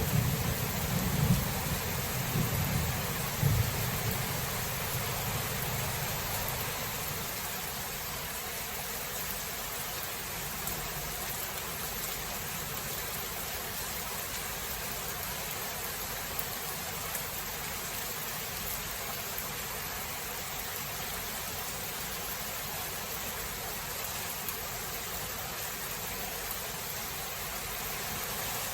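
Steady rain hiss of a thunderstorm, with the low rumble of thunder fading away over the first few seconds.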